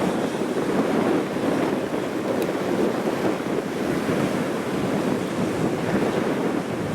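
Strong typhoon wind buffeting the microphone: a dense rushing noise that surges and eases from gust to gust.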